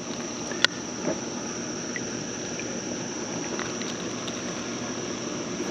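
Steady rushing of creek water with a constant high-pitched insect drone over it; a single sharp click comes a little over half a second in.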